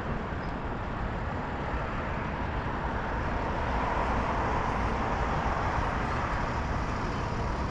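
Steady rush of wind and road traffic noise while cycling along a city street.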